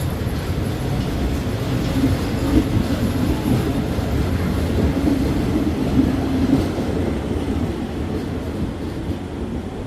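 Train running on the rails: a steady low rumble with wheel clatter. It swells in the middle and eases off toward the end.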